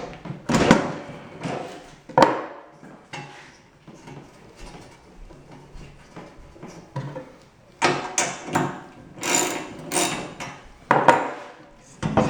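Parts of a Rubi TS 50 tile snap cutter being handled and worked loose during disassembly: irregular metal knocks, clatters and scrapes. Two sharp knocks come early, then a quieter spell, then a busy run of clattering about two-thirds of the way through.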